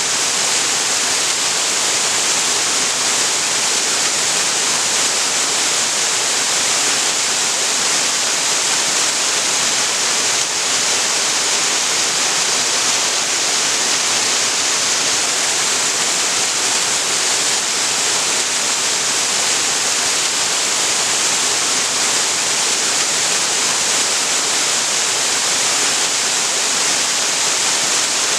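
Waterfall pouring into a creek: a loud, steady, even rush of falling water.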